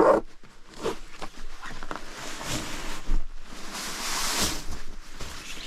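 A sharp thump right at the start, then irregular rustling and handling of fabric and gear, with two longer hissing swells in the middle.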